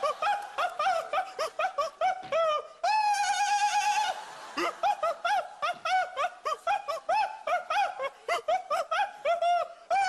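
A man chanting a pop song's intro without words in a high voice: fast, short "oo" syllables that rise and fall, about four or five a second, with one held note around three seconds in. The judges call it monkey-like choral chanting.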